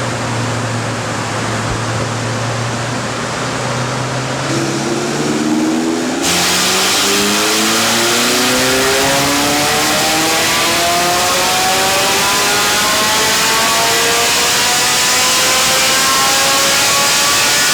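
Ferrari 458 Spider's 4.5-litre V8 on a chassis dyno, running steadily at first, then about four seconds in going to full throttle for a power run, its pitch climbing smoothly for over ten seconds before the throttle closes near the end.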